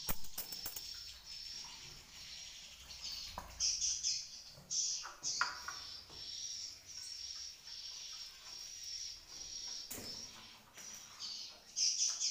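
Edible-nest swiftlets twittering in a continuous high, rapid chirping, with a few sharp clicks near the start and again about ten seconds in.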